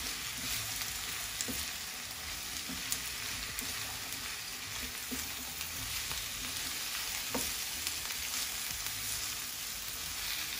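Pork stir-fry sizzling in hot oil in a pan, a steady hiss with a few light clicks of a utensil stirring.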